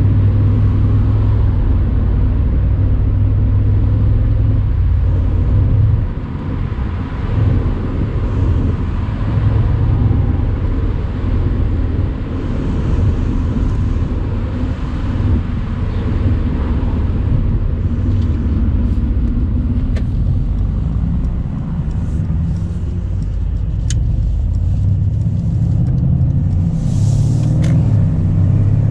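Mercedes-AMG C63's twin-turbo 4.0-litre V8 running steadily while driving on the road, a low drone that eases off briefly about six seconds in before picking up again.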